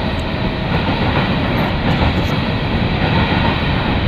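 Goods train of covered hopper wagons rolling slowly past at a station platform: a steady rolling noise of steel wheels on the rails.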